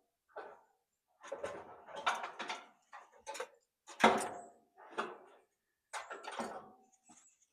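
A string of clanks, knocks and rattles from dryer parts and wiring being pulled and handled while an electric clothes dryer is stripped for scrap. The loudest knock comes about four seconds in.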